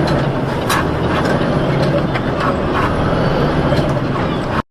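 Steady low rumble of a moving vehicle's engine and road noise, heard from inside, with scattered irregular clicks and knocks. It cuts off abruptly near the end.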